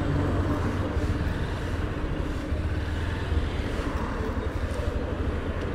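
Steady road-traffic rumble of passing vehicles on a busy street.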